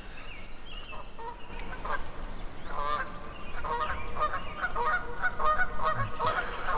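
A flock of geese honking, a few scattered calls at first and then many overlapping honks from about halfway through.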